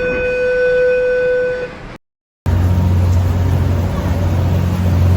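A ferry's horn sounding one long, steady blast that stops about two seconds in. After a short break, a ferry's engines run with a steady low rumble.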